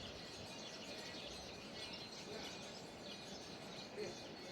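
Birds chirping faintly outdoors: many short, quickly falling high chirps repeating over a steady background hiss.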